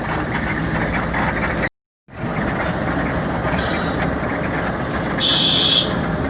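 Steady road noise of a moving vehicle, broken by a brief dead-silent gap about two seconds in. Near the end there is a short high-pitched burst.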